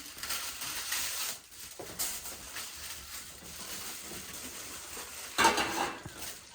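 Cooking sounds: pots and utensils being handled and stirred, light clatter over a steady noisy background, with one louder noisy scrape about five and a half seconds in.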